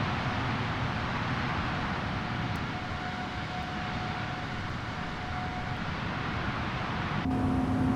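Airbus A330-900neo's Rolls-Royce Trent 7000 engines and airflow making a steady rushing drone with a faint steady whine. About seven seconds in, the sound changes suddenly and a low steady hum comes in.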